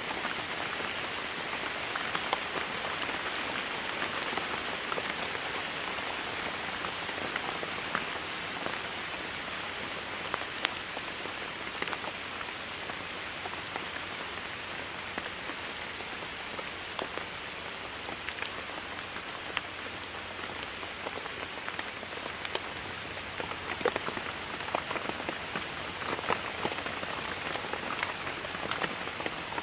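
Steady rainfall, a dense even hiss with individual drops pattering on a surface, a little heavier about twenty-four seconds in.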